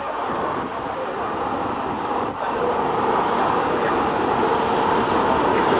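Jet engines of an Airbus A380 rumbling, growing steadily louder, with a steady whine that comes in about halfway through.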